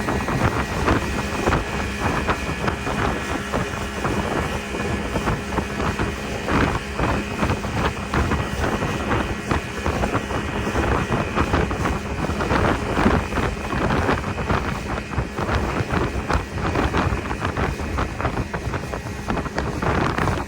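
Speedboat engine running at speed under way, with wind buffeting the microphone and frequent short knocks throughout.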